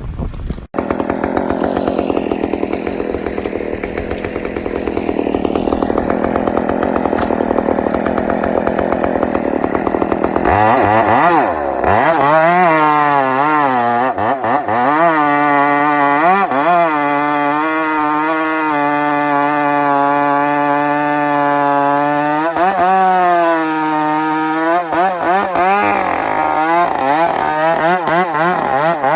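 Two-stroke chainsaw running close by. For about the first ten seconds it runs rough and lower. Then it revs up and down, holds high revs for several seconds, and drops back briefly a few times near the end.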